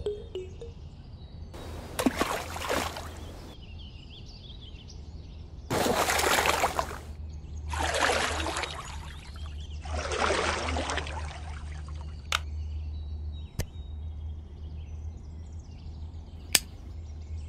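Water splashing and trickling in four short bursts as a hand works in a small diorama fish pond, followed by a few sharp clicks, the last as a small wire connector is pushed together.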